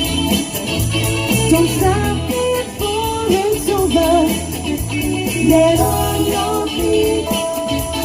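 Live band playing 1980s pop-rock: a woman singing over electric guitar, bass and drums.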